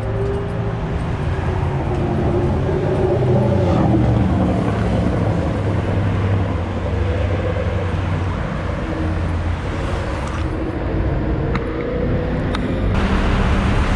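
A motor vehicle's engine running steadily, its pitch drifting slowly, with road and traffic noise around it.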